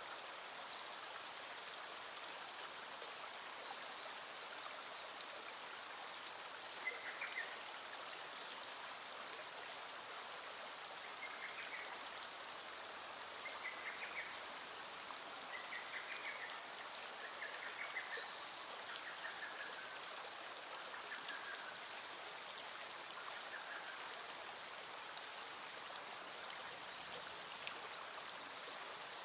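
Small stream flowing steadily over stones, with light rain falling. A series of short, repeated chirps starts about seven seconds in and dies away a few seconds before the end.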